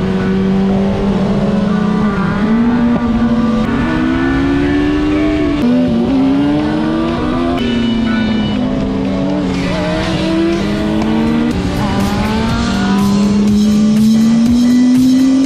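Motorcycle engine running under way, its pitch climbing and then dropping back several times as it accelerates and shifts gear, over a steady rush of wind noise.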